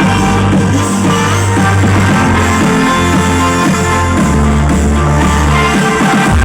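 Guitar-led music with heavy, held bass notes that change every second or so, played loud through a large sound system with eight subwoofers being tested.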